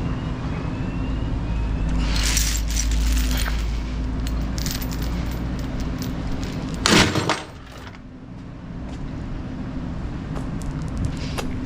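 Steel tie-down chains rattling and clanking as they are handled, with one loud metallic clank about seven seconds in. A steady low rumble lies under it and drops away just after the clank.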